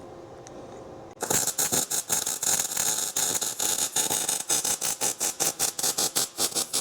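MIG welding a steel rod to an angle-iron handle: the arc strikes about a second in with a loud, dense crackling sizzle. Later it breaks into a regular pulsing of about five spurts a second.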